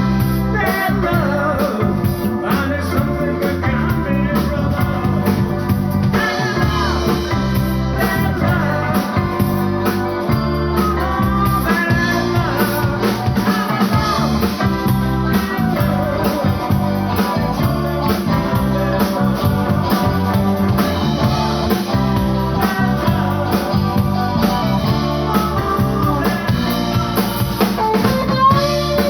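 Blues-rock band playing live: electric guitar, bass and drum kit keep a steady beat, with a voice singing.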